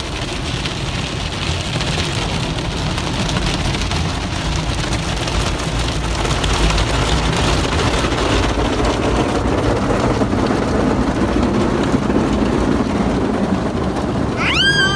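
Automatic car wash spraying water onto the car, heard from inside the cabin as a steady rain-like noise on the body and windows. Near the end a child gives a short, high-pitched squeal.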